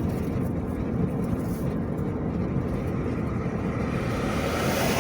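Steady road and engine noise heard from inside a moving car, with another vehicle's noise swelling up as it passes near the end.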